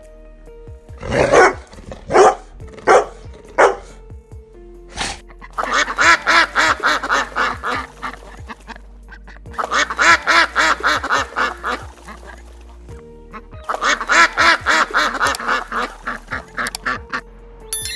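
Animal calls: a few single loud calls in the first few seconds, then three runs of rapid, repeated pitched calls, each lasting about three seconds.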